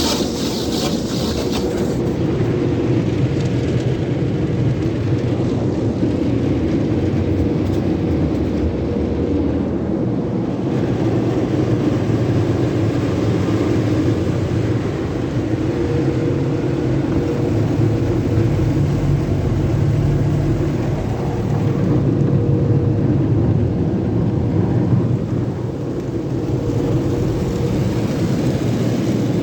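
AVW car wash tunnel equipment running: a loud, steady, low rumbling wash noise with a faint steady hum that comes and goes.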